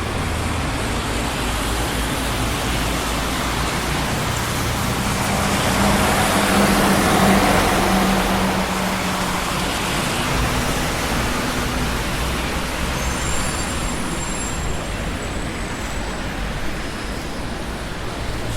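Steady traffic noise on a busy city street: a continuous rush of passing vehicles. About six seconds in, one louder vehicle swells past with a low engine hum and fades. Around thirteen seconds a faint high squeal sounds briefly.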